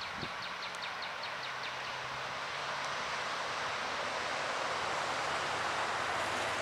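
Distant diesel-hauled freight train approaching: a steady rushing noise with a low engine hum, growing slowly louder. A bird's rapid run of high chirps sounds over it in the first two seconds.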